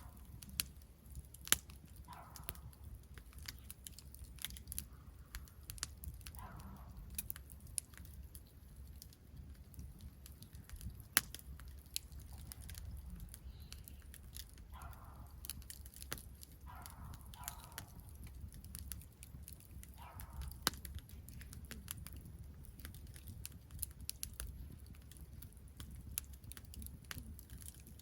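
Wood campfire crackling, with irregular sharp pops and snaps over a low steady rumble. A few short, faint sounds at a middle pitch come now and then.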